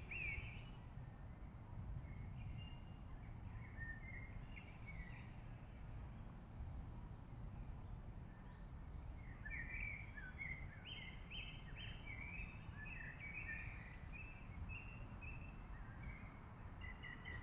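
Faint birdsong: many short chirps, thickest in the second half, over a low, steady background rumble.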